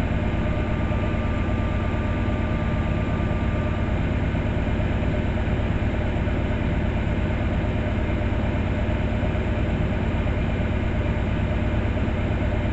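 An engine idling steadily, a constant low rumble with a faint steady hum above it.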